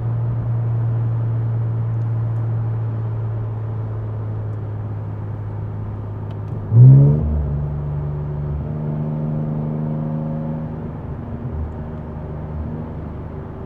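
Infiniti Q60's twin-turbo V6 cruising steadily in the cabin. About halfway through the revs jump sharply as the car drops a gear and accelerates, then the engine holds at higher revs.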